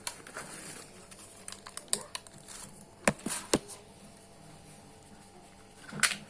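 Scattered clicks and light knocks of small hard objects being handled, irregular and a few seconds apart, with a sharper knock about three seconds in and another near the end.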